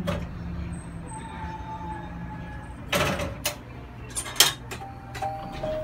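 Tokyu Setagaya Line car running slowly, with a steady low hum. Several sharp knocks and clunks come at irregular intervals from about halfway through.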